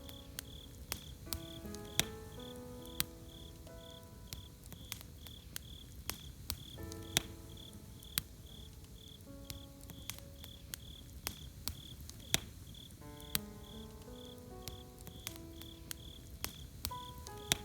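Campfire crackling with irregular sharp pops, over crickets chirping steadily about two to three times a second. Soft melodic notes of background music play underneath, sparser around the middle.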